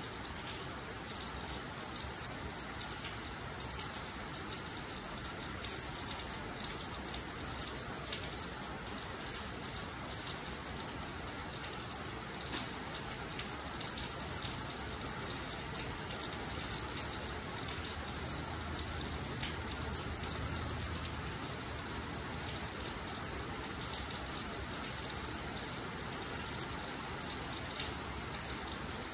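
Steady rain falling and splashing on the ground, with many small drop ticks scattered through it. One sharper tick comes about six seconds in.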